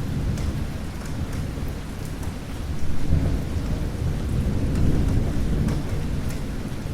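Steady rain with scattered drop ticks, under a low rolling rumble of thunder that swells about three seconds in and again near five seconds.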